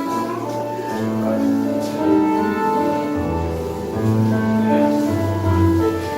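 Live tango music played by a band, held melody notes over a moving bass line.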